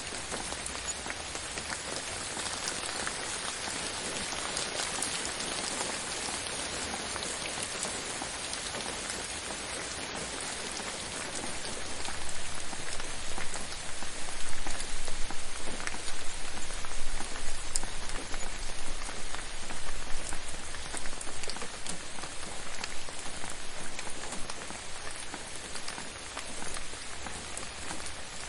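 Steady rain falling on a surface, a dense patter of drops that grows louder and more uneven about halfway through and eases off again near the end.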